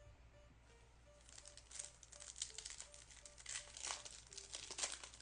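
Foil wrapper of a trading card pack being torn open and crinkled, a dense rustling crackle that starts about a second in and keeps on to the end.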